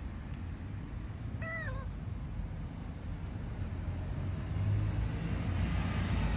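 A domestic cat meowing once, a short call that falls in pitch at the end, over a steady low rumble. It is the cat's cry to be let outside.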